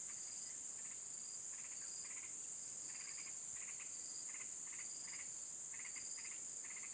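Steady high-pitched insect drone, typical of crickets, with a short high note repeating about twice a second and irregular bursts of quick chirps over it.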